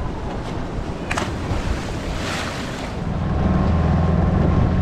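Wind and water rushing past on a moving boat, with a sharp knock about a second in. About three seconds in, a boat engine's steady low drone comes up and grows louder.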